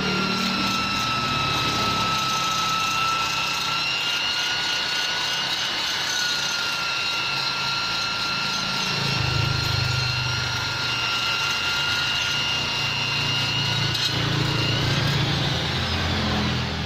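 High-speed rotary grinder spinning a carbide burr, a 'mata tuner', against metal to shape the ports of a Vespa two-stroke cylinder. It gives a steady high whine, with a rough grinding rumble that comes and goes as the burr bites, heavier in the second half. Near the end the pitch lifts briefly.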